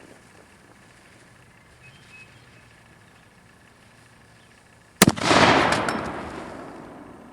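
A black-powder 1.75-inch Dahlgren boat howitzer fires once, about five seconds in: a sharp, loud report followed by a long rumbling echo that fades over the next two seconds.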